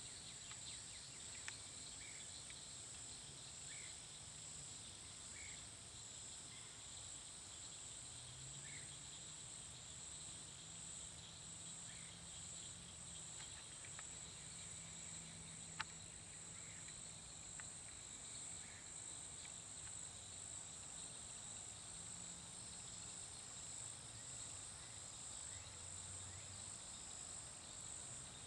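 Faint, steady high-pitched chorus of insects in the woods, with scattered short chirps now and then and a single sharp click about sixteen seconds in.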